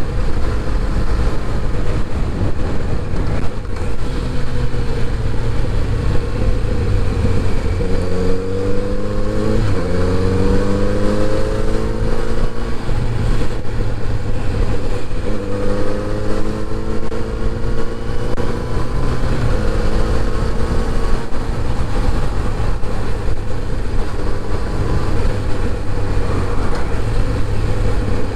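Kawasaki Z900RS inline-four engine running on the move, over a steady low road and wind rumble. The engine note rises several times as the bike accelerates, breaking off and climbing again at gear changes about a third of the way in, around the middle, and near the end.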